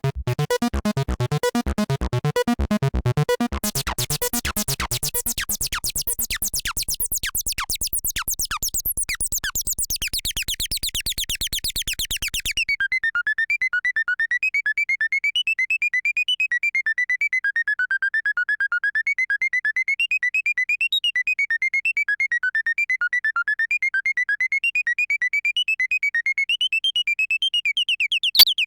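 Behringer TD-3-MO acid bass synthesizer playing a fast repeating sequence driven by a Eurorack 8-step sequencer, with modulation changing its tone. About halfway through the sound changes abruptly from a full, dense pattern to a thin, high, rapidly stepping line of notes.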